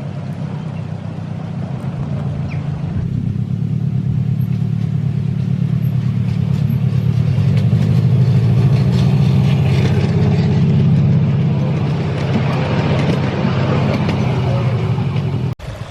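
7¼-inch gauge miniature railway train running along the track, a steady low mechanical drone with a fast even pulse that grows louder over the first half and eases slightly after. It breaks off abruptly just before the end.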